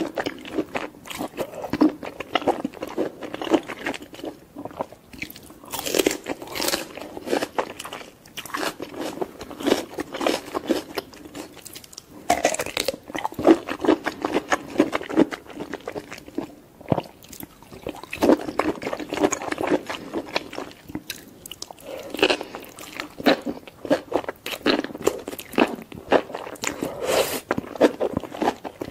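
Close-miked biting and chewing of mushrooms: crunches and mouth clicks in repeated clusters, with short pauses between mouthfuls.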